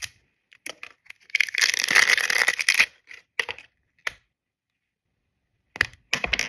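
Close-up handling of skincare products and their packaging: a few sharp clicks and taps, and one dense crackling rustle lasting about a second and a half that sounds like tearing or crushing.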